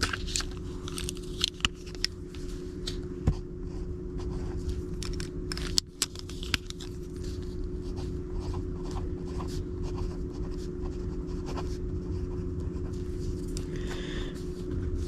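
Paper index cards being handled: light scraping, rustling and scattered clicks, a few sharper ones in the first several seconds, over a steady low hum.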